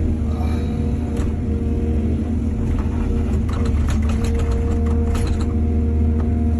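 Heavy diesel engine of an excavator running steadily with a low hum. Midway through comes a run of quick clattering knocks lasting about two and a half seconds.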